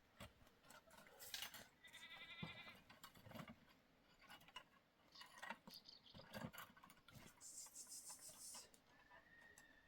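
Faint bleating of goats, a short call about two seconds in and another higher one late on, among light scattered knocks.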